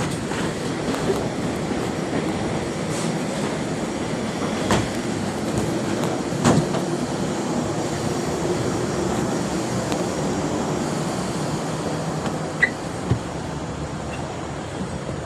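Steady aircraft cabin noise: a continuous rushing drone with a faint low hum under it, broken by a few sharp knocks or clunks.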